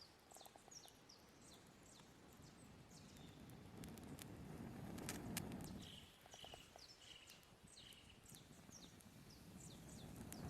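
A long, soft blow of breath through a drinking straw onto smouldering embers to coax them into flame, and a second one starting near the end. Birds chirp throughout, with a few faint crackles.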